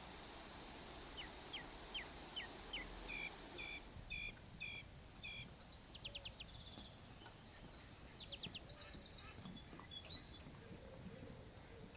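Wild birds singing in woodland: one bird repeats a short note about two or three times a second for several seconds, then quick high trills follow from other birds, over a faint steady hiss that fades partway through.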